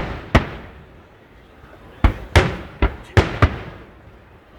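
Fireworks shells bursting overhead: a pair of sharp bangs at the start, a lull of about a second, then a quick run of five bangs, each followed by a rumbling echo that dies away.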